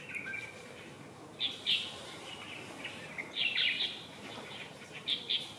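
Small birds chirping and twittering in three short bursts: about a second and a half in, again around three and a half seconds, and briefly near the end, over a steady outdoor background hiss.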